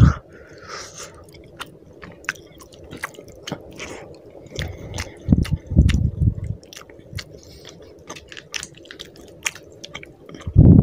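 Close-up wet chewing of rice and fish curry eaten by hand, with many small sharp clicks of mouth and fingers. Dull low thumps come about five seconds in and again near the end.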